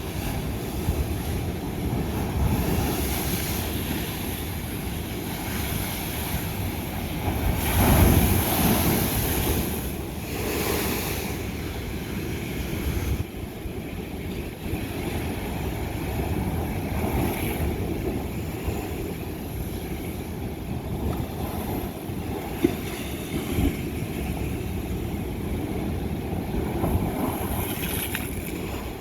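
Ocean waves breaking on old lava rock, with a steady wash of surf. The biggest wave crashes about eight seconds in, and a smaller surge follows a few seconds later.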